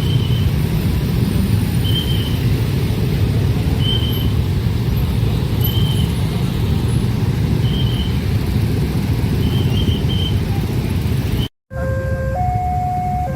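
A train passing a level crossing with a loud, steady low rumble, and a short high beep about every two seconds. After a cut near the end, a level-crossing warning alarm alternates between two tones about once a second.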